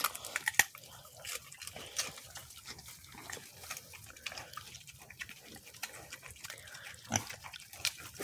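Mini pigs chewing celery, with irregular sharp crunches, the loudest near the start.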